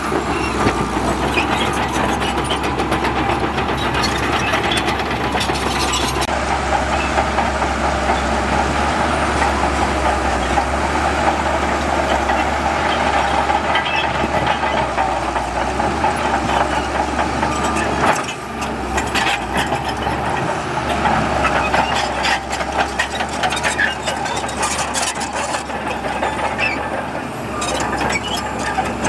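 Heavy diesel earthmoving machinery working: an engine running steadily under load with scattered clanks and knocks, dipping briefly about 18 seconds in.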